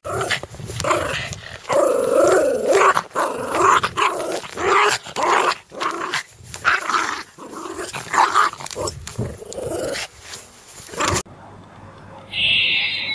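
A young puppy howling and whining in a run of repeated calls that waver up and down in pitch. The calls cut off abruptly about eleven seconds in, leaving quieter outdoor background with a brief high-pitched sound near the end.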